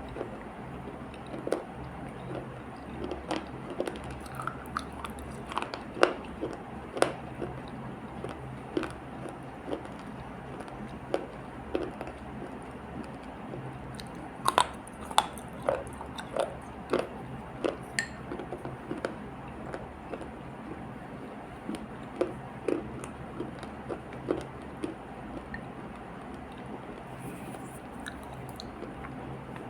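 Close-up biting and chewing of dried multani mitti (Fuller's earth) clay paste: irregular sharp crunches, some much louder than others, over a steady low hum.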